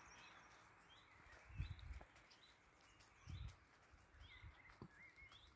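Faint, short rising bird chirps repeated every half second to a second, over near silence, with a couple of brief low thumps.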